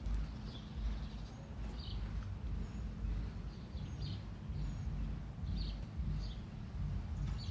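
Small birds chirping, short calls repeating about once or twice a second, over a steady low rumble.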